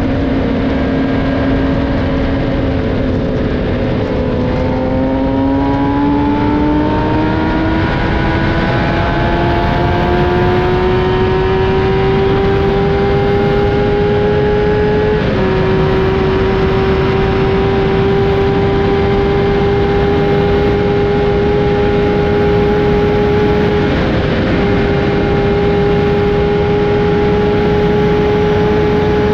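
Kawasaki 1000 cc inline-four sportbike engine pulling hard at full throttle in fifth gear, its pitch climbing steadily as the revs rise from about 8,000 to over 12,000 rpm. About halfway through, a quick upshift into sixth drops the pitch slightly, and it then keeps climbing slowly near the top of the rev range. Heavy wind rush from riding at well over 250 km/h runs underneath.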